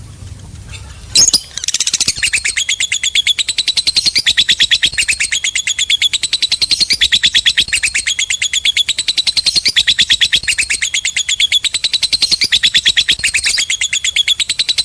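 Lovebird "ngekek": after a single sharp call about a second in, a long, unbroken chattering trill of rapid, high-pitched notes, repeated many times a second.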